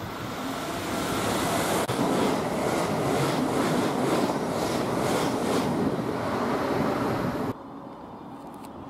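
Electric multiple unit train running past close by: a swelling rush of wheels and air, then a rhythmic clatter of about two to three beats a second as the wheels run over the rail joints. It cuts off abruptly near the end to a quiet steady background.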